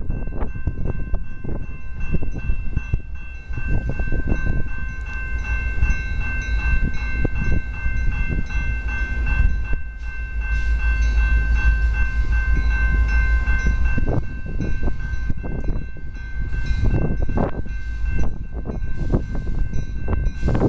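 AMT commuter train running past, a heavy low rumble of the locomotive and multilevel cars, with a steady high whine held over it for most of the time.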